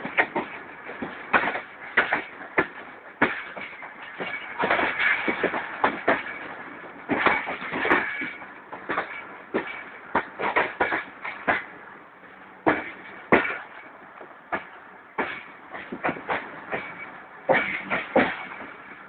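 Passenger train running through a station, heard from aboard the moving coach: irregular sharp clacks of the wheels over rail joints and points over a steady running noise.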